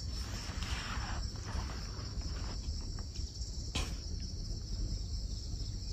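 Crickets chirring in a steady, high, even chorus, with a low rumble underneath and a single sharp click a little under four seconds in.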